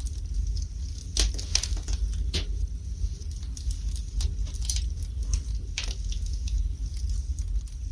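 Wood fire burning in a fireplace: irregular sharp crackles and pops from the logs over a low, steady rumble of the flames.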